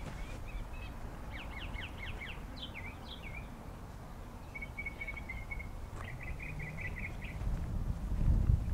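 Small songbirds calling: several runs of rapid chirped trills and quick down-sweeping notes. A low rumble on the microphone grows loud near the end.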